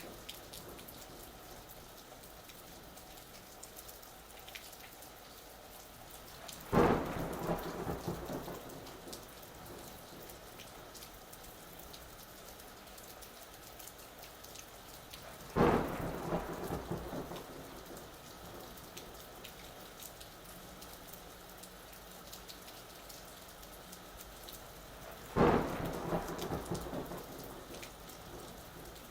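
Steady rain falling, broken by three sudden cracks of thunder spaced roughly nine seconds apart. Each clap is followed by a rumble that dies away over a couple of seconds.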